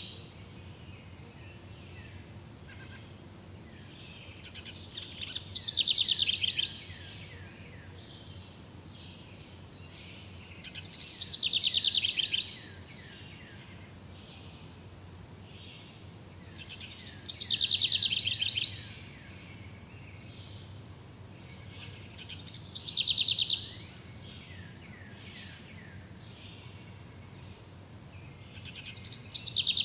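A songbird repeating one short, fast trilled song of falling high notes about every six seconds, five times, over a faint steady insect drone and background noise.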